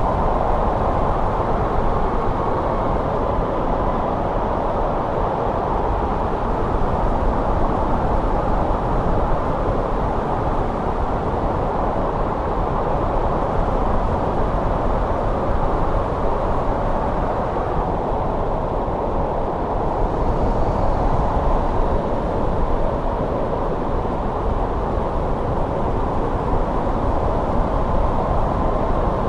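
Steady winter wind blowing, a low rushing noise with a faint whistling tone running through it.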